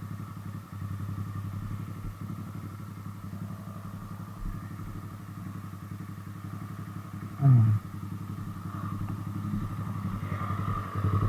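Motorcycle engine and exhaust running steadily, a fast even firing pulse with the level rising a little near the end. About seven and a half seconds in, a brief louder sound with a falling pitch cuts through.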